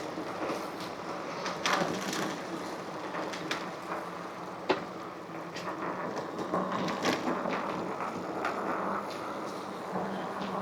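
Electric bike being ridden: a steady low motor hum under road and wind noise, with scattered rattles and clicks and one sharp knock a little under halfway.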